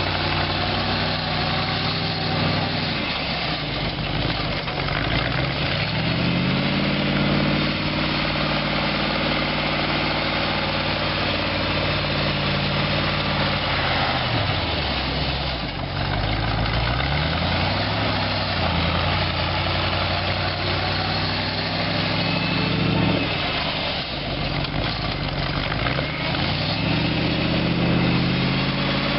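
Chrysler 318 V8 engine of a homemade articulated tractor, its revs climbing and falling back several times as it works, over a steady hiss.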